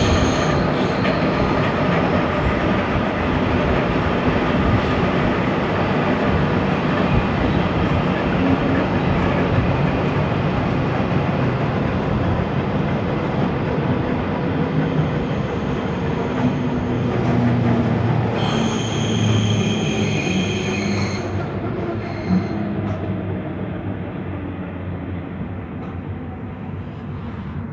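Berlin S-Bahn class 485 electric train running along the track, heard from inside the car: a dense steady rumble of wheels on rails, with a high squeal for a few seconds about two-thirds of the way through. The noise eases off near the end as the train slows into a station.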